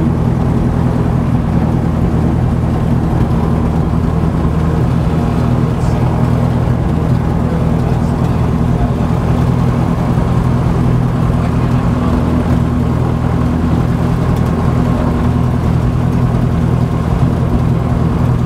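Lancair 360's four-cylinder Lycoming engine and propeller running steadily on a ground run, holding an even speed throughout.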